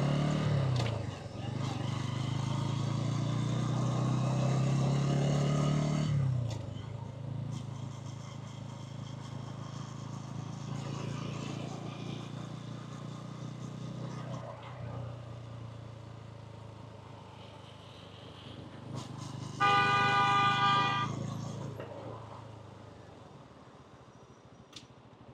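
A 125cc motorcycle engine pulls under throttle with its pitch creeping up, then eases off about six seconds in and runs on more quietly in traffic. About twenty seconds in, a vehicle horn sounds once for about a second and a half, loud.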